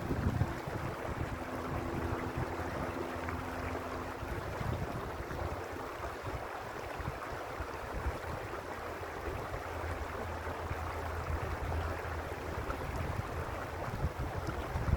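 Mountain stream water running steadily over rocks, with low wind buffeting on the microphone right at the start and a faint steady low hum in the first few seconds.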